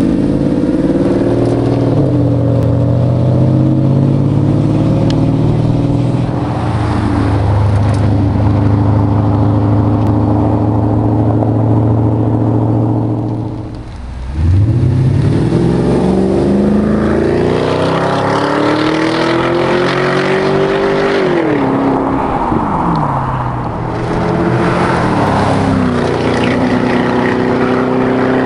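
Porsche Cayenne V8 running through a stainless-steel aftermarket exhaust. It idles steadily, then about halfway through it is revved up over several seconds and drops back to idle.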